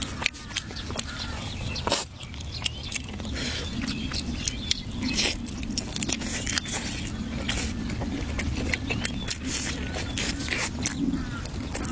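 Someone eating close to the microphone: irregular clicks and crunches of chewing, over a steady low hum.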